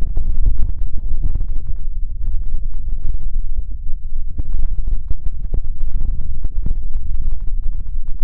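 Hands scrubbing and rubbing directly on the microphone in an ASMR hair-wash, giving a deep rumble with dense, irregular crackling.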